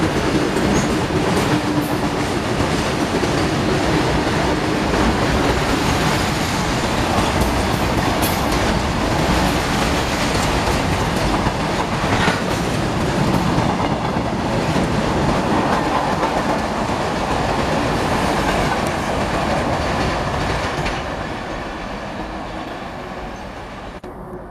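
A long freight train of covered box wagons rolling past with a steady rumble and the clatter of wheels over rail joints. It fades away over the last few seconds as the end of the train moves off.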